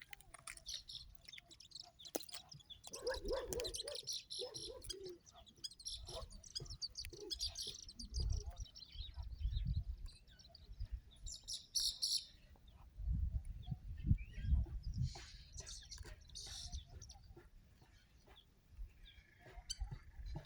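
Small birds chirping and calling on and off, in short high notes. Two stretches of low rumble come about eight and thirteen seconds in.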